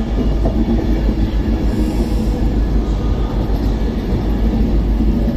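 A train running past on the main line, a steady heavy rumble of wheels and running gear.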